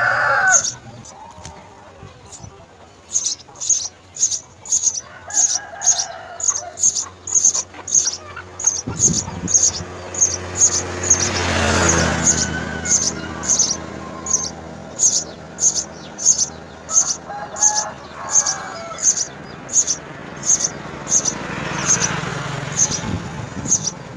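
A small bird chirping over and over, short high chirps about two a second, with a rooster crowing in the background a few times.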